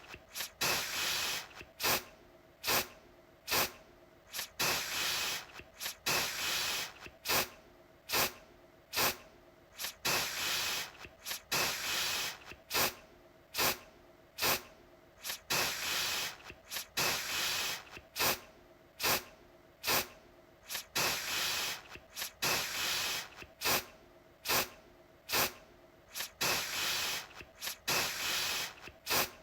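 Aerosol deodorant can spraying in a quick run of short hissing bursts, with a longer spray of about a second now and then. The hiss is mostly high-pitched.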